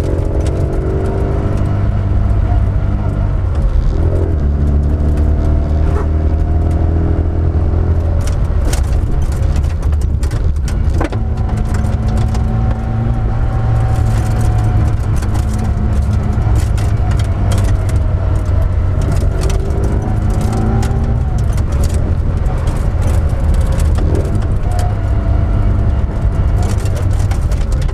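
Classic Mini engine with a Weber carburettor pulling hard through the gears, the revs climbing again and again with short breaks between them. Over it runs the whine of its straight-cut gearbox, heard from inside the car.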